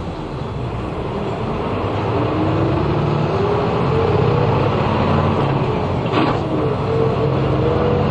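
Route bus engine heard from inside the cabin as the bus pulls away and accelerates, growing louder with a whine that rises slowly in pitch. There is a brief break about six seconds in, then it climbs again.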